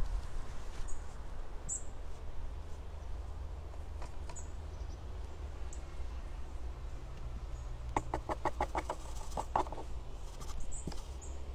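A bird calls with a quick run of about seven short, evenly spaced notes about eight seconds in, then one more call, over a steady low rumble.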